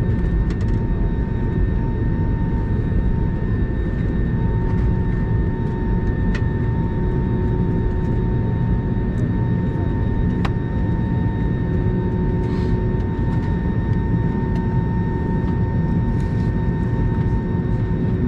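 Steady cabin noise inside a Spirit Airlines Airbus A320neo after landing: a continuous low rumble with a thin, even whine held over it.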